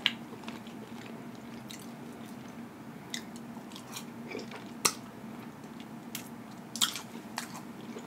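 A person chewing a mouthful of french fries close to the microphone, with sharp wet mouth clicks and lip smacks every second or so over a faint steady hum.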